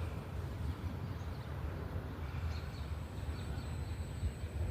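Outdoor ambience: a steady low wind rumble on the microphone, with a few faint short bird chirps.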